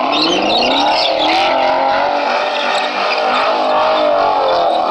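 Chevrolet Camaro's engine revved hard while it spins donuts, its rear tyres spinning and squealing on the asphalt. The revs climb over the first second, then hold high and waver.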